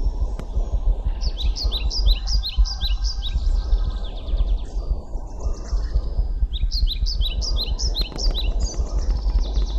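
Birdsong: two runs of quick, repeated high chirps, each a few seconds long, over a steady low rumble.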